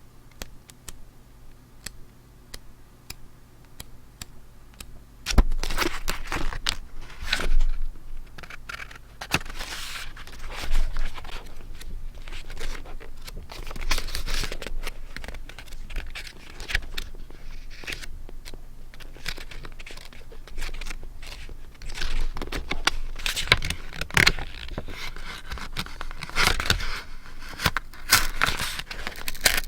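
Paper being handled for scrapbook journaling: irregular crinkling, rustling and scraping of paper, starting about five seconds in after a few faint ticks.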